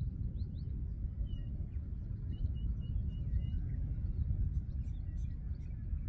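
Faint birds chirping over a constant low rumble, with a quick run of short, evenly spaced high notes from about one to three and a half seconds in.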